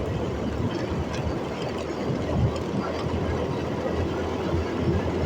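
Motorcycle riding noise: wind rushing over the microphone with the engine running steadily underneath.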